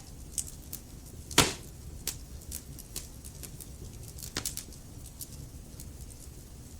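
Log fire crackling in a fireplace: frequent small snaps over a low steady rumble, with one loud pop about a second and a half in and a smaller one near the end.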